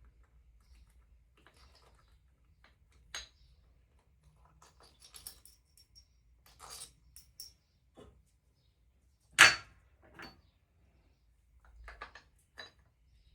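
Metal hand tools clicking and tapping against engine parts as a cap is pried off a VW T5 engine, with scattered small clicks and one loud, ringing metallic knock about nine seconds in.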